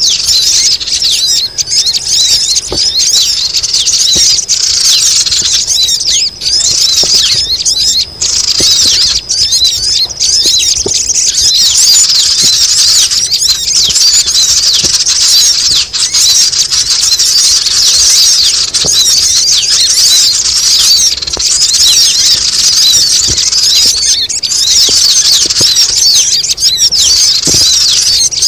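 A flock of sogon birds calling at once: a dense, continuous mass of rapid high-pitched chirps and squeaks, the noisy lure call used to draw wary sogon down to a trap.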